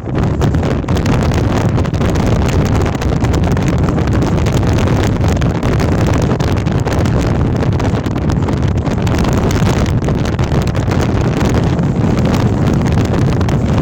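Storm-force gale wind buffeting the microphone: a loud, unbroken rush with dense rapid crackling and flutter throughout.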